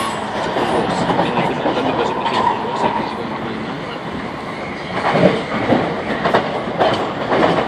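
A moving passenger train heard from inside the carriage: a steady rumble of wheels on rails, with a run of clicks and clunks over the track from about five seconds in.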